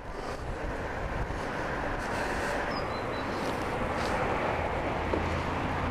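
Steady rushing of wind and road noise while riding a bicycle, slowly getting louder, with a few faint clicks.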